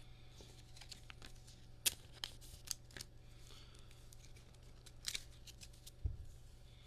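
Trading cards being handled and slid into plastic penny sleeves: scattered light clicks and plastic rustles, with a soft thump near the end, over a steady low hum.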